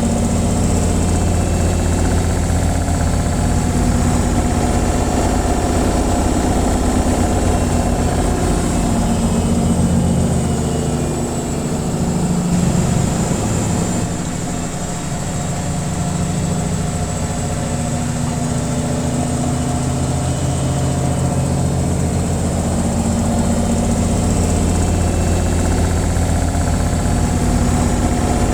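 Washing machine on its spin cycle: a steady motor hum that dips slightly in level for a few seconds midway, then returns.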